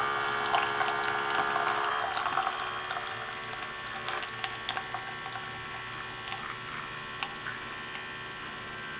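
Fanttik Cafein 11 portable espresso machine's pump humming steadily as it pushes hot water through the coffee during extraction, with faint scattered ticks.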